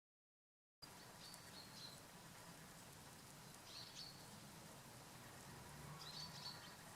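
Faint birds chirping: three short bursts of high chirps over a low steady hiss, starting after about a second of dead silence.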